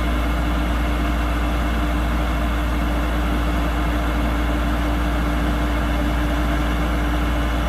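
Kubota DC-105X combine harvester's diesel engine running steadily: a deep, even drone with a steady hum over it.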